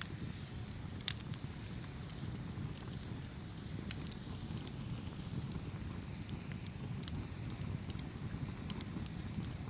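Campfire burning with a steady low rumble of flames and frequent sharp crackles and pops, one louder pop about a second in.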